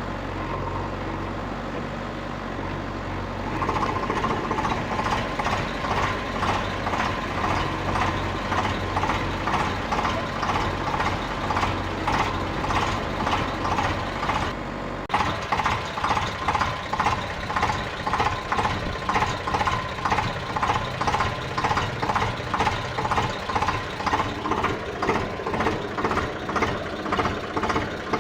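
A machine's motor running steadily, with a pulsing sound about twice a second that starts about four seconds in.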